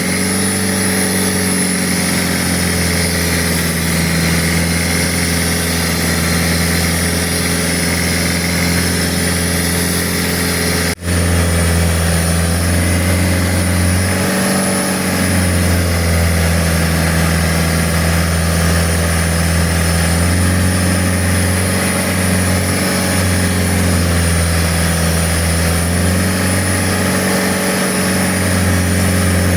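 Boat engine running steadily under way, a constant low hum with a wash of noise over it, broken by a momentary dropout about eleven seconds in.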